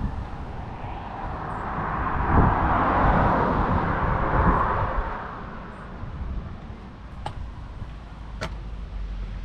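New Holland T6.155 tractor driving past, its 4.5-litre four-cylinder diesel and tyre noise swelling to a peak a few seconds in and then fading, with wind gusting on the microphone. Two sharp clicks near the end.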